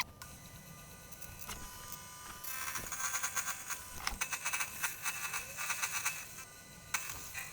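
Milling machine spindle running with a steady high whine, with a 6 mm end mill cutting a shallow pocket into aluminium stock. From about two and a half seconds in until about six and a half, the cutting gets louder and rattly as the cutter bites, then it eases back to the spindle alone.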